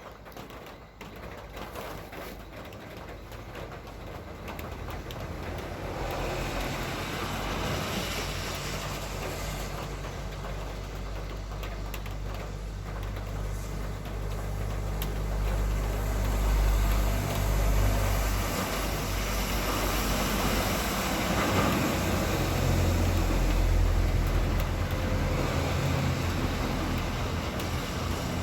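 Motor vehicle traffic: engines running with a steady low hum and tyre noise, building louder a few seconds in and staying loud through the second half, as vehicles come close.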